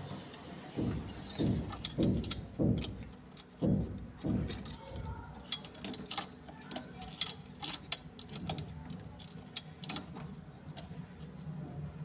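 IFB washing machine running its dry cycle: a steady low hum, with heavy thuds about twice a second for the first five seconds, then many light clicks and rattles.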